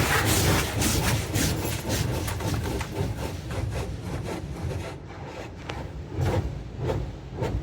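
High-pressure water jets from a touchless automatic car wash blasting against a pickup truck's body, heard from inside the cab as a rough, rapid, uneven drumming and hiss.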